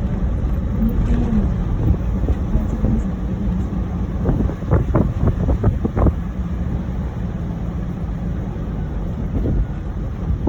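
Car driving on beach sand: a steady low rumble of engine and tyres with wind noise on the microphone. There is a run of short knocks about four to six seconds in.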